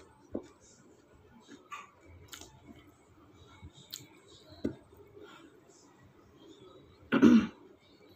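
A woman eating chicken curry with her fingers: faint chewing and small mouth clicks scattered through, then a short loud throat sound, like a cough, about seven seconds in.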